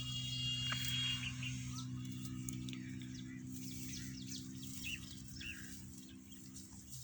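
Small birds chirping and calling, with one held high whistle in the first second, over a steady low machine hum.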